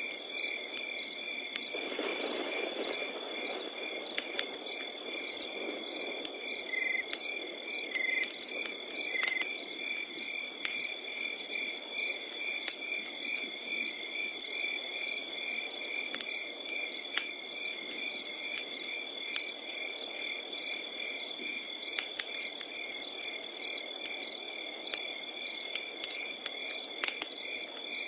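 Campfire crackling with scattered sharp pops and a low hiss that swells about two seconds in, over night insects: a steady high trill and a regular chirp about one and a half times a second.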